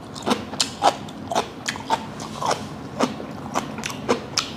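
A person chewing a mouthful of raw mackerel sashimi wrapped in aged kimchi, with short crisp crunches about three times a second.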